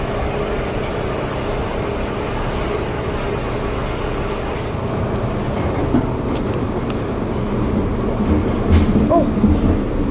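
Steady rumble and hiss of an MTR Island line metro train running through the tunnel, heard from inside the front car. Louder, uneven low sounds come in near the end.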